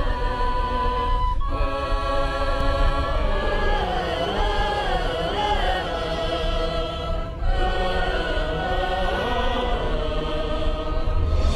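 Music with a choir singing long held chords, briefly breaking off about a second and a half in and again about seven and a half seconds in.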